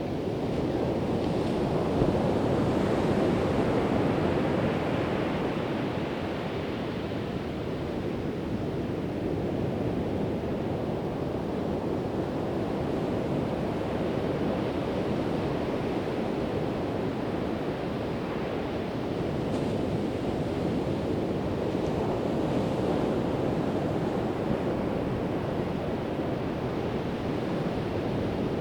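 Pacific Ocean surf: waves breaking and washing up the beach in a steady rush, swelling about a second in and again about two thirds of the way through. Some wind buffets the microphone.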